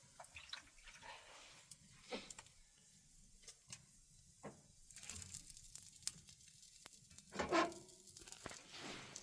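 Scattered rustling, scraping and small knocks of work done by hand, with one louder scrape about three quarters of the way through.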